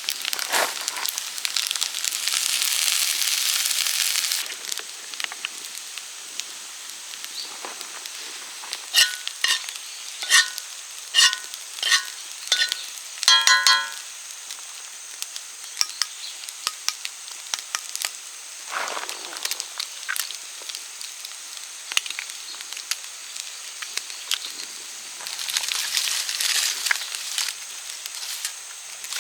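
Fried rice of rice and ginger sizzling in a frying pan: a loud sizzle for the first few seconds, then a quieter sizzle. Around the middle there is a run of short, ringing metal clinks of a utensil striking the pan, and the sizzle swells again near the end.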